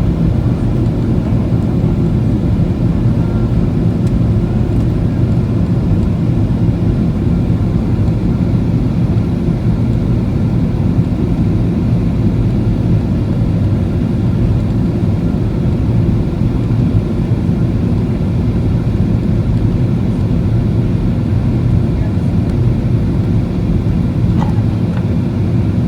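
Boeing 737 cabin noise on approach: a steady low rumble of the engines and rushing air, unchanging throughout.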